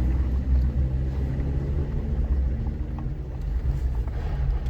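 Steady low engine and road rumble of an off-road vehicle driving, heard from inside its cabin.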